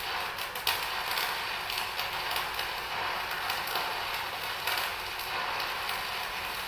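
Electric arc welding on a vertical corner joint: a steady, dense crackle from the arc as the bead is run.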